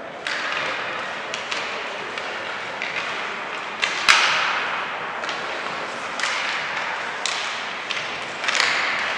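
Sharp knocks and thuds of game play echoing in a large hall, about one a second at irregular spacing, the loudest about four seconds in, over a steady hiss of crowd and room noise.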